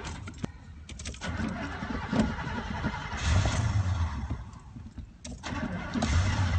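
A cold old Buick's engine being cranked and starting hard, with clicks near the start, then catching in uneven surges about three and again about six seconds in as the gas is pumped.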